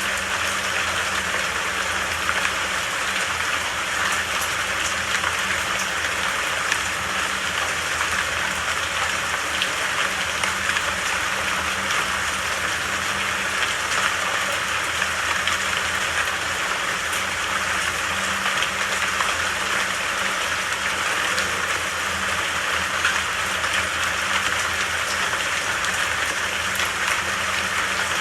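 Steady rain falling, an even hiss of drops with occasional sharper drop ticks and a faint low steady rumble beneath.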